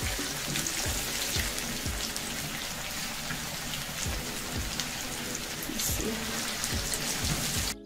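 Chicken mince patties sizzling in hot oil in a frying pan as more raw patties are slid into the oil; the sizzle cuts off suddenly near the end. Background music with a steady beat plays underneath.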